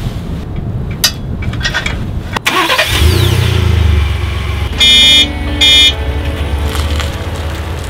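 Ford Expedition's engine starting after a few clicks, about three seconds in, and then running at a steady low idle. Two short, loud horn beeps sound about two seconds after it catches.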